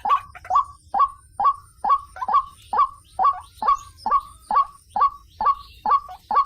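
White-breasted waterhen (ruak-ruak) calling in a steady repeated series, about two short, sharp notes a second, some coming in quick pairs, as used for a bird-luring call.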